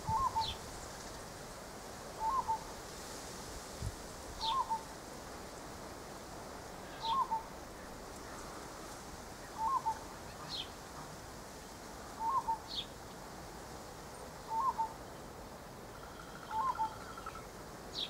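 A bird repeating a short two-note hooting call about every two to three seconds, with fainter thin, high chirps that drop in pitch from another bird in between.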